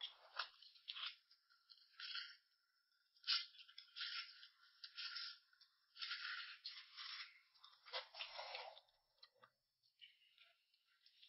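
Faint, irregular bursts of crunching, as of someone chewing crunchy food.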